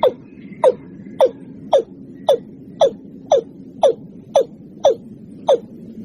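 Watercock calls played as a lure: a rapid, even series of short sharp notes, about two a second, each dropping steeply in pitch, over a faint low hum.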